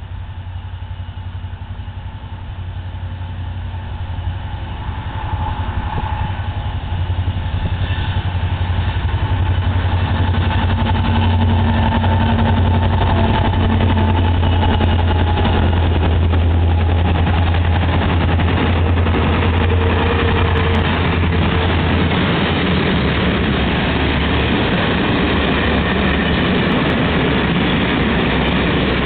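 M62 diesel locomotive, with its two-stroke V12 engine, approaching and passing with a low steady engine drone that grows louder. About two-thirds of the way through, the drone gives way to the rumble and clatter of a long train of open coal wagons rolling by.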